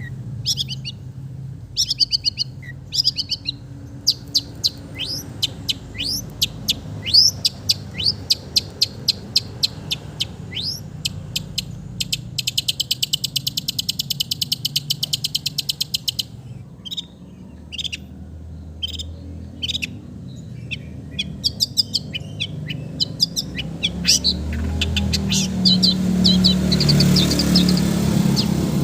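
Long-tailed shrike (cendet) singing a fast, varied string of sharp high chips and calls, with a rapid dry chatter of about four seconds in the middle. A low rumble rises near the end.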